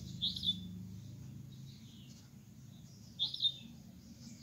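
A bird chirping twice, two short high calls about three seconds apart, each rising and falling quickly in pitch.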